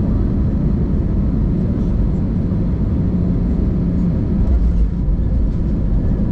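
Steady low rumble inside the passenger cabin of an Airbus A320-200 during landing: jet engine and airflow noise, even and unbroken.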